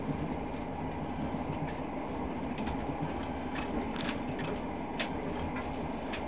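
Passenger train carriage running at speed, heard from inside: a steady rumble of wheels on the rails with a few light clicks.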